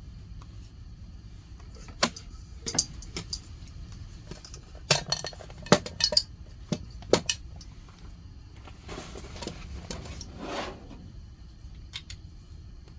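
Tableware being handled: a run of sharp clinks and knocks from about two to seven seconds in, then a short rustling noise, over a steady low background hum.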